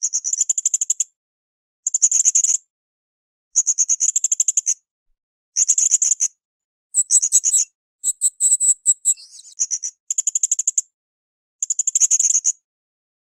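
Blue-crowned hanging parrot (srindit) calling: a string of short, high-pitched trills, each a quick run of clicks lasting about a second, repeated every second or two. Around the middle comes a longer, more varied twittering phrase.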